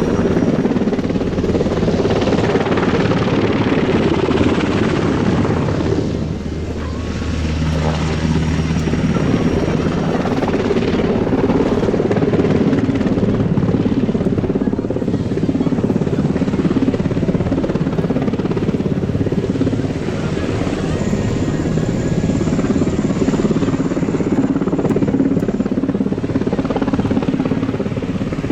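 JASDF UH-60J rescue helicopter's rotors and twin turbine engines running steadily, with a brief dip in level about six seconds in.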